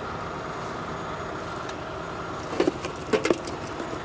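Truck engine running steadily, with three sharp knocks a little past halfway, two of them close together.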